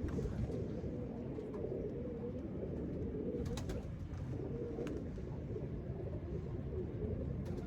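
Domestic pigeons cooing, a low wavering coo repeating throughout, over a steady low rumble, with a couple of sharp clicks near the middle.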